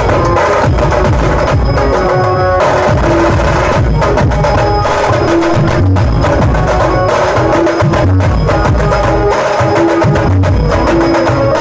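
Loud banjo-party band music: an Indian banjo-led melody over heavy, steady drumming.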